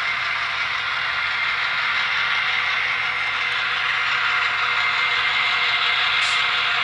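Diesel engine sound from the LokSound V5 decoder of an HO-scale Bowser MLW M630 model locomotive, played through its small onboard speaker. It runs steadily, thin and without deep bass.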